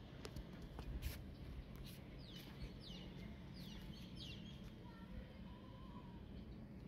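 Faint outdoor background with a bird chirping: four short, quick chirps that slide downward in pitch, about half a second apart. A few light taps come about a second in.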